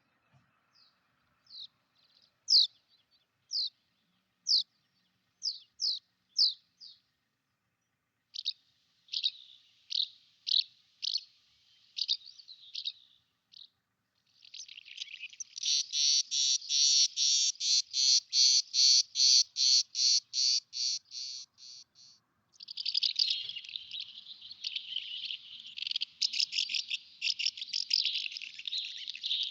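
Songbirds singing in spring. First come single high chirps about a second apart, then faster strings of notes. About halfway through, a loud run of evenly repeated notes, about two a second, gives way to dense continuous twittering.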